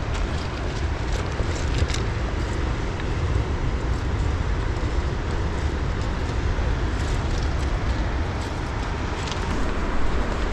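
Wind rumbling on the microphone over a steady wash of outdoor noise, with a few faint clicks.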